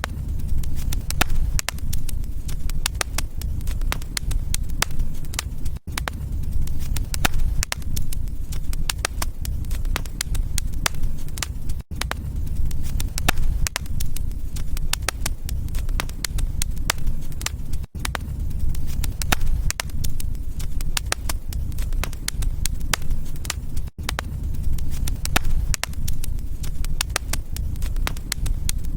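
Wood fire burning in a fireplace: a steady low rumble with dense sharp crackles and pops. A short dropout breaks it about every six seconds.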